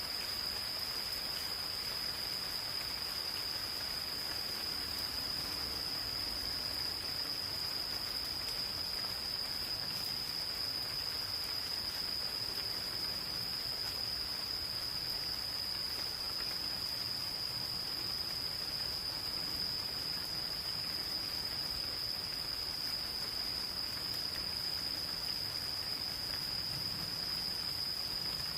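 Insects calling in one continuous, unbroken high-pitched trill, over a soft hiss of light rain.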